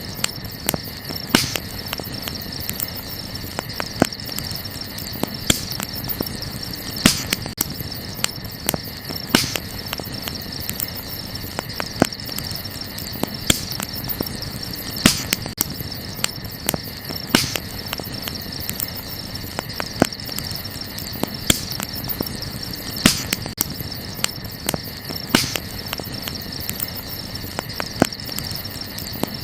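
Wood campfire crackling, with irregular sharp pops every second or so, over a steady chirring of night insects.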